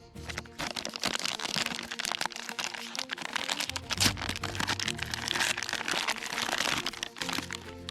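Plastic wrapping of a military ration pack being torn open and crumpled by hand: continuous crinkling with a sharp snap about four seconds in.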